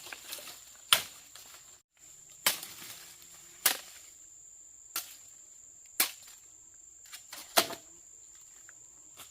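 Wood being chopped: about six sharp, loud strikes, roughly one every second or so, with a few lighter knocks, over a steady high-pitched buzz of insects.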